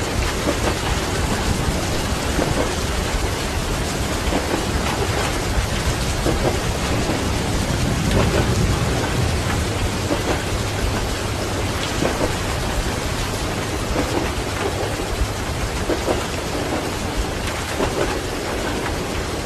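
Steady heavy rain with rumbling thunder; a long roll of thunder swells about eight seconds in, under soft regular knocks about every two seconds.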